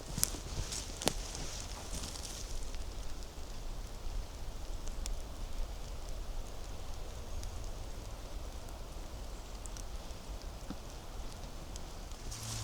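Crackle and rustle of dry leaf litter and twigs on a forest floor, with two sharp twig snaps in the first second, then softer rustling with scattered small ticks.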